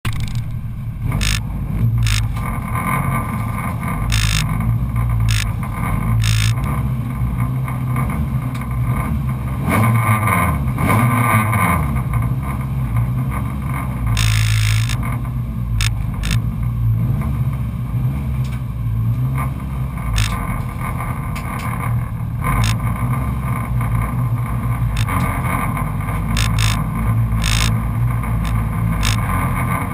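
Race car engine idling loudly as heard inside the stripped cabin, its pitch rising and falling briefly around ten seconds in, with scattered short clicks and rattles.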